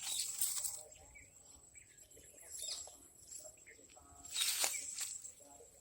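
Birds chirping in short, scattered calls over a steady thin high whine. There are two louder bursts of noise, one at the start and one about four and a half seconds in.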